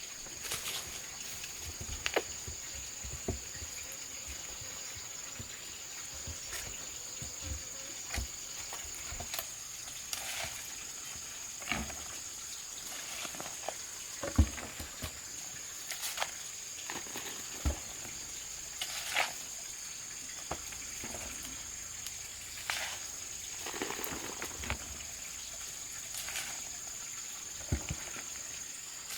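Scattered light taps and knocks, a dozen or so, over a steady high-pitched insect whine.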